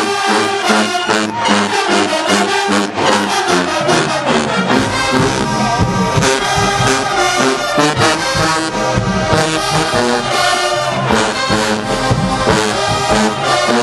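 Marching band brass section playing loud, punchy horn lines over a driving drum cadence. The low horns come in heavily about four and a half seconds in and fill out the bottom.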